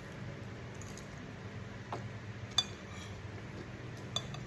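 Cutlery clinking against a dish about three times while eating, the loudest clink a little past halfway.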